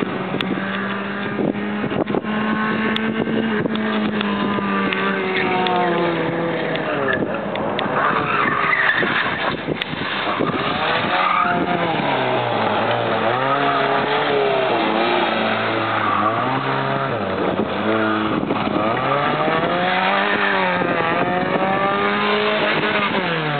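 Competition car's engine held at steady high revs, then revving up and dropping again and again as it is worked hard through a tight chicane, with some tyre squeal.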